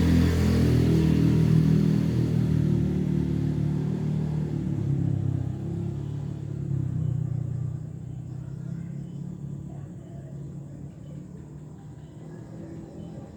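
A motor vehicle's engine rumbling, loudest at the start and fading away over the next several seconds as it moves off.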